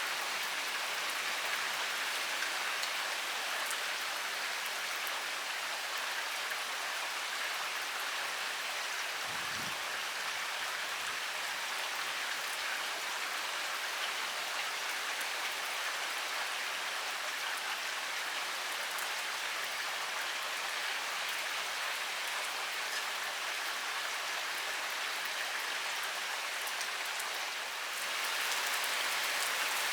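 Heavy rain pouring steadily, a dense even hiss of drops. A brief low thump about a third of the way in, and the rain grows slightly louder near the end.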